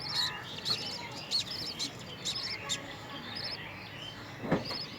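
Budgerigars chirping, many short repeated high chirps from several birds, with one sharp knock near the end.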